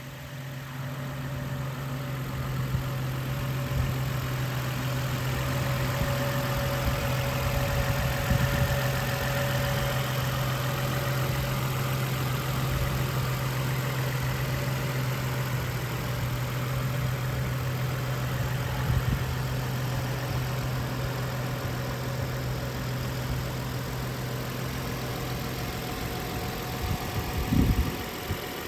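Car engine idling steadily in its engine bay, a constant low hum. Near the end the hum stops and a few loud thumps follow.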